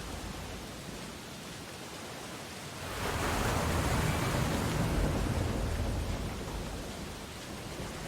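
Sea waves washing on a beach: a steady hiss of surf, with one wave breaking about three seconds in that swells to a peak and then draws back over a few seconds.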